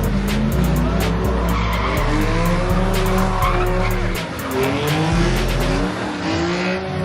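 Car engine revving up and down over and over, with tyre squeal and skidding from a burnout. Music with a deep bass beat plays along with it.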